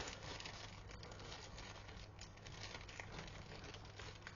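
Plastic packaging bags being handled and opened, with faint, irregular crinkling and rustling.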